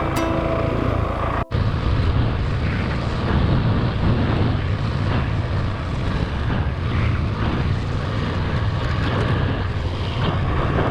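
Background music, then, after a sudden cut, a motorcycle running steadily on the move with wind noise on the microphone.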